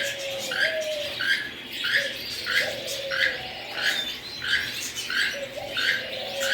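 Cage birds calling: a short, sharp call repeated steadily about three times every two seconds, over lower drawn-out cooing notes.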